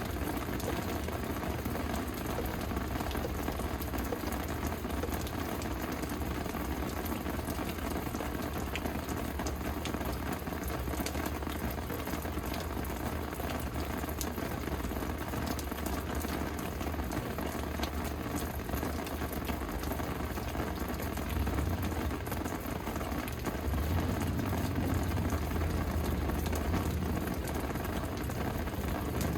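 Steady rain falling, with many small drops ticking on nearby surfaces. A low rumble swells a little about two-thirds of the way through.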